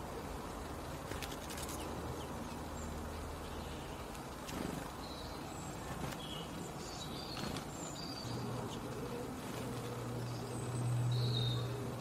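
Outdoor ambience at a garden seed feeder: faint, short high chirps from small birds scattered throughout, over a low steady hum that swells near the end.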